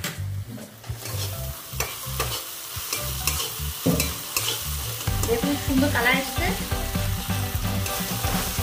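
Onion-paste and spice masala with tomato sauce sizzling in hot oil in a pan as it is stirred, the spoon scraping the pan in repeated short strokes. The masala is being fried down before salt and water go in.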